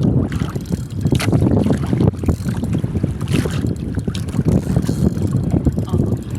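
Wind buffeting the microphone in an irregular low rumble, with a few faint clicks.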